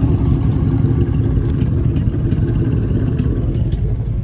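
A car engine running close by, a steady low rumble.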